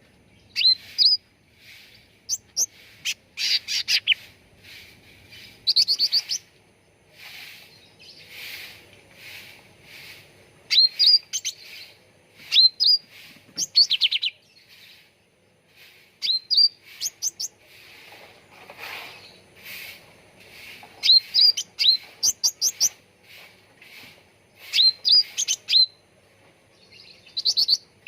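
Cucak ranting songbirds chirping: repeated bursts of quick, sharp, high notes every second or two, with softer chatter in between.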